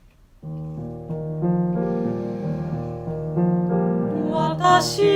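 Piano playing a gentle introduction in slow chords, starting about half a second in, leading up to the entry of the voice.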